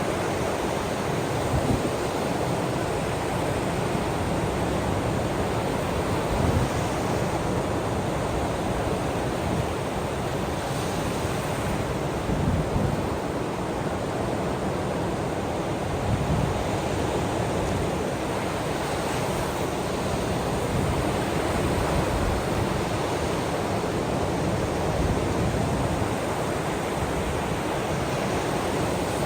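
Ocean waves washing in, a steady rushing noise with small swells every few seconds.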